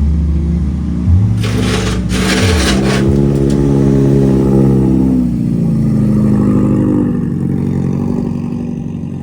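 Car engine revving and running, its pitch shifting up and down, with a loud hissing burst between about one and a half and three seconds in; the note falls and fades over the last few seconds.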